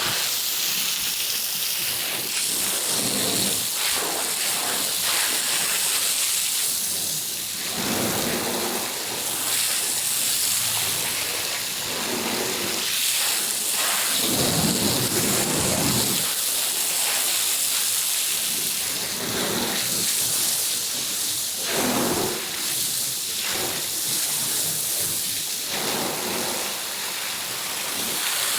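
Water spraying hard onto a carpet with a steady hiss, like heavy rain, swelling and fading irregularly with lower-pitched rushes as the spray moves across the pile.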